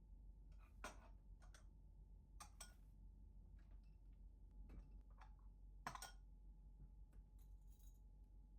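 Faint scattered clicks and light taps, a few seconds apart with the loudest about six seconds in, over a steady low hum.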